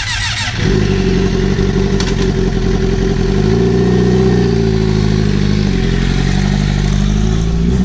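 Motorcycle engine running through a straight pipe, its slip-on muffler removed. About a second in it gets louder, and its pitch rises, falls back and rises again with the throttle as the bike pulls away.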